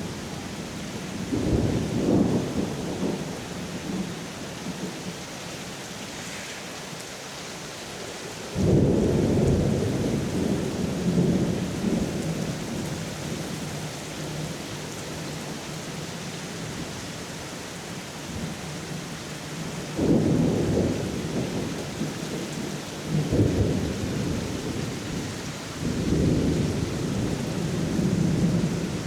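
Steady rain falling, with thunder rumbling several times. The strongest rumble starts suddenly about nine seconds in, and further rolls come in the last third.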